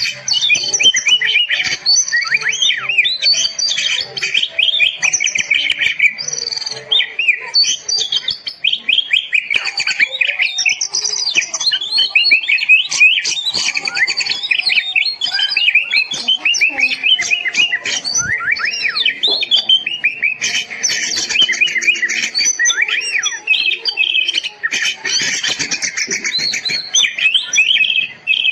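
Oriental magpie-robin (kacer) in full song: a continuous stream of rapid, varied whistles, trills and chattering phrases with no pauses.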